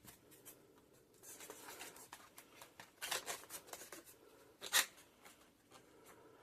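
Latex twisting balloons being rubbed and handled, giving short runs of crackly squeaks, the loudest about five seconds in.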